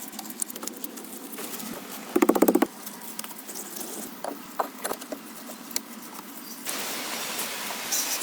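Scattered taps, knocks and scrapes of hand building work. About two seconds in there is a brief, loud, rapid rattle. A steady hiss starts in the last second and a half.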